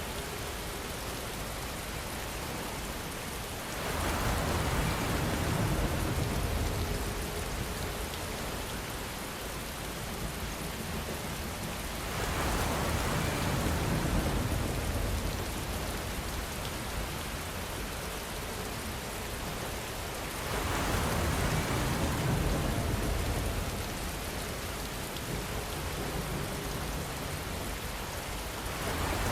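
Steady rainfall. It swells louder for a few seconds about every eight seconds, three times over, with a fourth swell starting at the very end.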